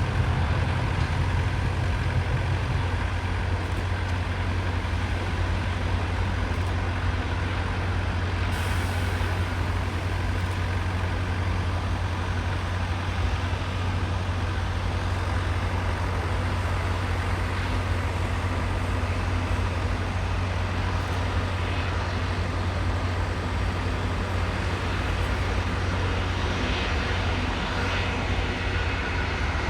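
A large engine running steadily: a constant low rumble with faint steady hum tones above it, easing slightly near the end.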